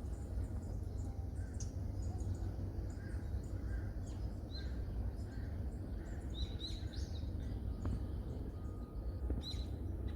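Wild birds chirping and calling: scattered short, high chirps, with a quick cluster of them a little past the middle and another near the end, over a steady low rumble.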